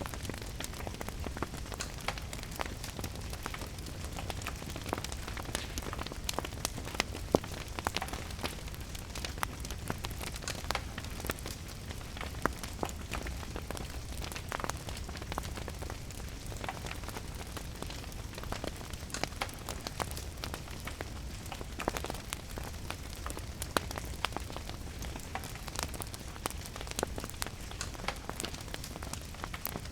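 Steady rain hiss mixed with a crackling wood fire: many sharp, irregular pops over an even wash of rain, with a low rumble underneath.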